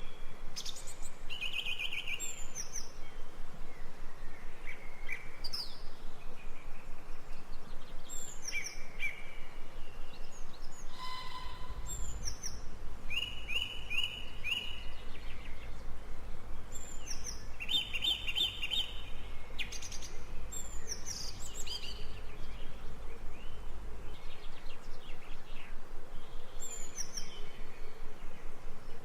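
Birds chirping and calling in an outdoor nature ambience, with short, repeated high notes scattered throughout. A low rumble comes in for about twelve seconds in the middle.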